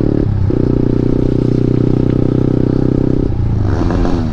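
KTM Duke 390 single-cylinder engine revved through an Akrapovic exhaust with the dB killer removed. It is held at steady high revs with a brief dip about a third of a second in, then drops back, the pitch falling near the end.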